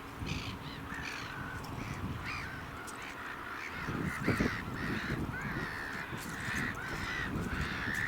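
Gulls calling over and over, a run of short arched cries, over a low rumbling noise that swells briefly about four seconds in.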